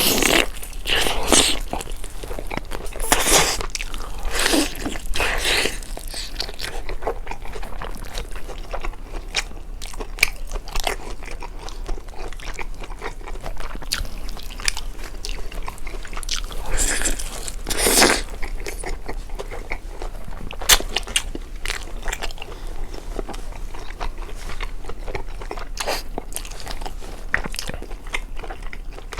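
Close-miked biting and chewing of grilled chicken: crunchy bites and wet chewing with many small clicks and crackles, the loudest bites near the start, a few seconds in, and around two-thirds of the way through.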